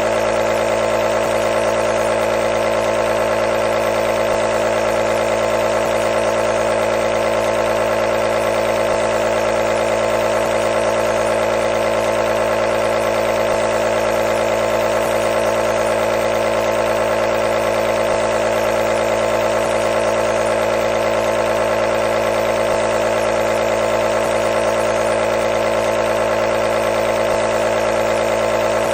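Nebulizer's electric compressor running steadily, a loud constant motor hum and buzz.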